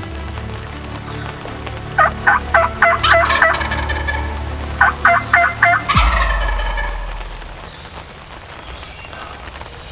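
Wild turkey gobbler (tom) gobbling twice: each gobble is a quick rattling run of notes, the second starting about three seconds after the first.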